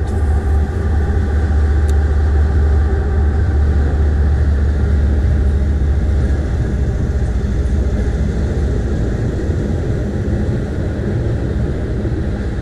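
A train passing: a loud, steady low rumble with a faint engine drone, loudest a few seconds in and easing off slowly.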